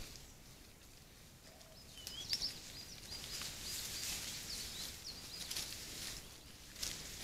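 Small birds chirping in short, quick high calls from about two seconds in, over a rustling hiss with a few sharp crackles from wild boars pushing through wet grass and mud.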